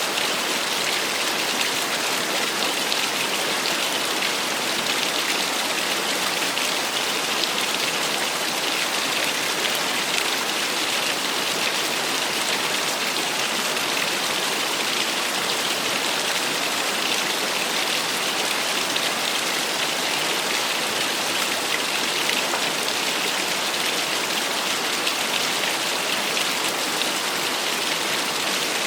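Small waterfall: water falling and splashing steadily, a constant hiss.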